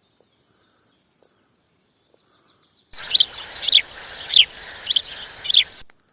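A bird calling: five loud, short, downward-sliding whistled notes about two-thirds of a second apart, over a hiss that starts abruptly about three seconds in and cuts off just before the end. Before that there is near silence with a few faint ticks.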